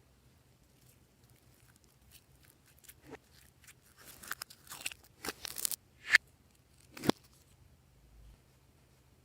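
Glossy slime being worked by hand, giving scattered crunchy clicks and pops. They come thickest in the middle, and the two loudest snaps fall about a second apart near the end.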